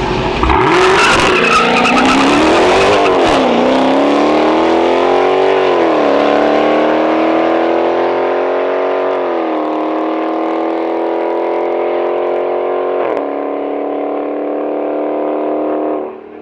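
A street car launching hard down a drag strip, its engine pitch climbing through the gears with a sharp drop at each upshift (three shifts a few seconds apart). The engine then holds a steadier note as it pulls away down the track.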